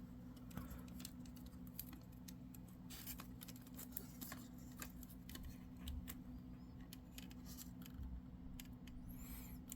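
Faint, scattered clicks and light taps of a small plastic model train car and its packaging being handled, over a low steady hum.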